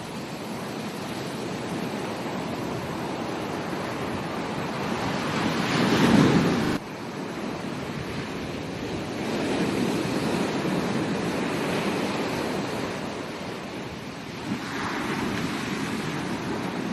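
Ocean surf washing onto a beach, the rush of breaking waves swelling and ebbing every few seconds. The loudest surge comes about six seconds in and cuts off abruptly.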